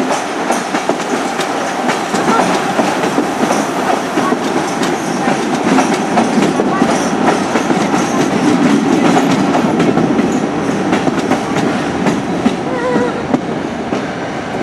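A train running on the track, its wheels clattering steadily over the rails.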